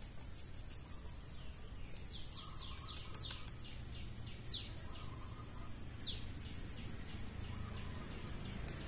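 White-headed munia nestling chirping during hand-feeding: about two seconds in comes a quick run of around eight short, high, falling chirps, then two more single chirps a second or so apart. These are the begging calls of a chick being fed.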